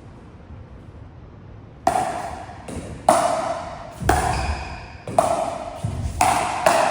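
Pickleball paddles hitting a plastic pickleball back and forth, a quick series of sharp pops with a short ring. The hits start about two seconds in, about eight of them at roughly one to two a second.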